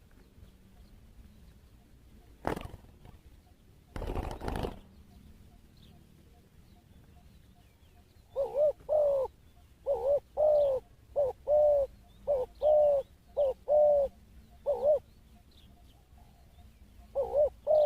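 A dove cooing loudly in a run of short, repeated notes that start about eight seconds in. Before that come a single thump and a brief rustling burst.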